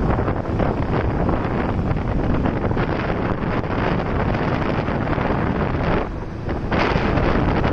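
Wind buffeting the microphone of a moving motorcycle, over the rumble of its engine and the road. The noise drops briefly about six seconds in, then comes back.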